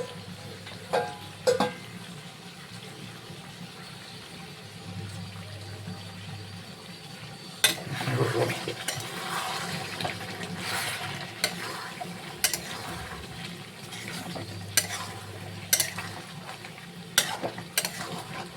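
Chicken curry being stirred in a pan while it fries with a light sizzle, the utensil knocking sharply against the pan about nine times, with a louder stretch of scraping and sizzling about eight seconds in.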